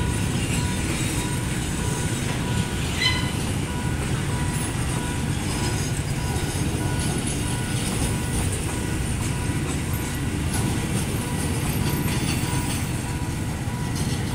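Freight train of loaded container flat wagons rolling steadily past a level crossing: a continuous low rumble of wheels on rail.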